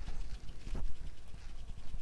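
A paintbrush dabbing and scratching on canvas with acrylic paint: quick, irregular light taps and brushing strokes, one a little stronger about three quarters of a second in.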